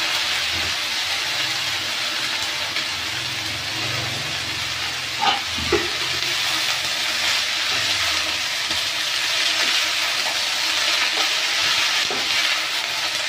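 Radish leaves sizzling in hot oil with turmeric in a kadhai, a steady frying hiss as they are stirred. A metal slotted spoon clinks twice against the pan about five seconds in.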